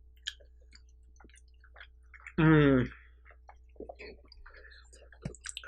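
Close-miked eating sounds: soft chewing, lip smacks and small scattered clicks of mouth and utensils, with one short voiced 'mm'-like sound about two and a half seconds in.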